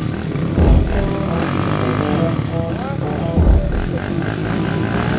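Dirt bike engines revving, with short rising sweeps in pitch, mixed with music.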